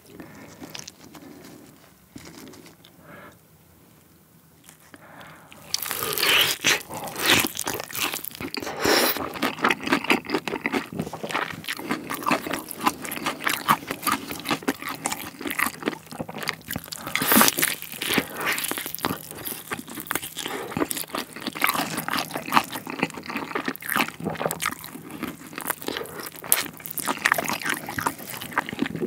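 Close-miked biting and chewing of a sauce-glazed Korean yangnyeom fried chicken drumstick, with its crust crunching. The bites and chewing start about six seconds in and run on thickly after a few quiet seconds.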